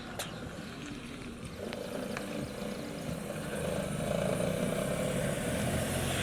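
A motor vehicle's engine approaching, its hum growing steadily louder from about a second and a half in.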